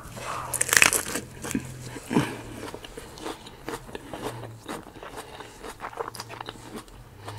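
Close-up biting and chewing of a romaine-lettuce-wrapped taco: crisp lettuce crunches and wet mouth clicks throughout, loudest in the first two seconds or so.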